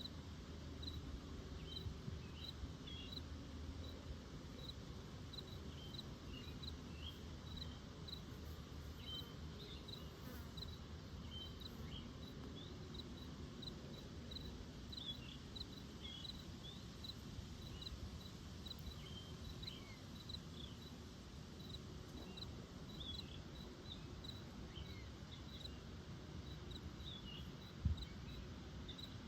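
A short high chirp repeating steadily about twice a second, with scattered brief squeaks just below it, over a faint low rumble. A single sharp knock comes near the end.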